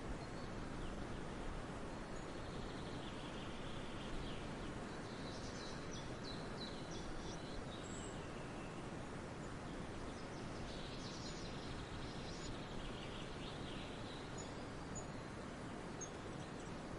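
Songbirds singing in a forest over a steady background hiss: two longer spells of quick, high chirping song, one a couple of seconds in and one about two-thirds through, plus a few short very high chirps.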